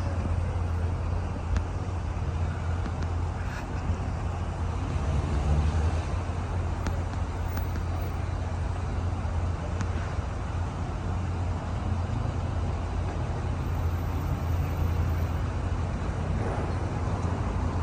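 Car running with its steady low drone and road noise, heard from inside the cabin.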